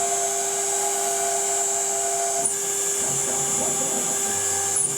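CNC router cutting a relief: a steady high spindle whine over the stepper motors' tones, which shift in pitch about halfway through. It is a full-depth finish pass run without roughing passes, a pretty heavy cut.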